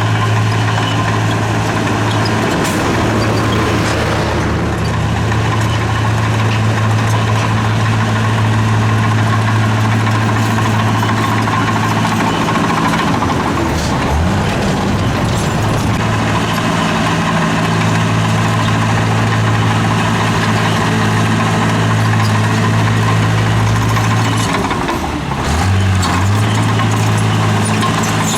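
Heavy diesel engine of earthmoving machinery running steadily. Its note shifts and glides between about twelve and sixteen seconds in, then drops and climbs back again near the end.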